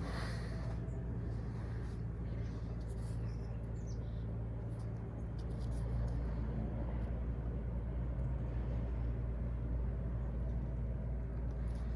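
Engine idling: a steady low hum with an even pitch, with a few faint clicks above it.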